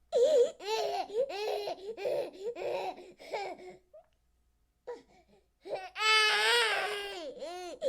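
Baby crying: a string of short, quick sobbing cries, a pause of about two seconds, then one long wail near the end.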